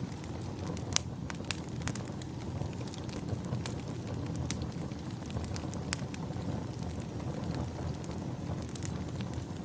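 Wood fire burning in a fireplace: irregular sharp crackles and pops over a steady low rumble of flame, the sharpest pop about a second in.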